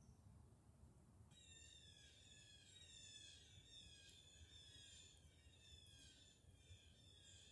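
Faint calls of several wild birds in the trees, many short, falling notes repeated over one another, starting abruptly about a second in.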